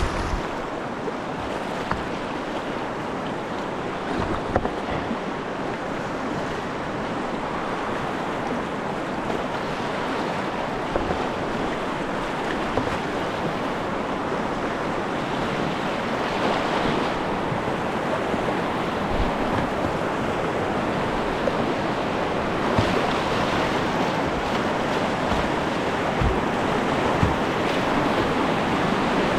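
Whitewater on the Snoqualmie River: river rapids rushing steadily, slowly growing louder toward the end, with a few short low thumps.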